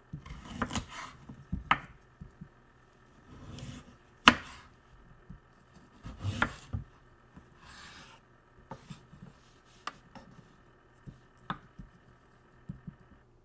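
Knife chopping food on a cutting board: irregular knocks and short scrapes, with one sharp knock about four seconds in.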